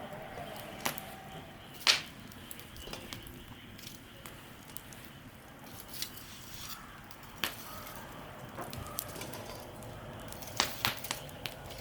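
Campfire crackling, with irregular sharp pops over a low steady hiss; the loudest pop is about two seconds in, and a quick run of pops comes near the end.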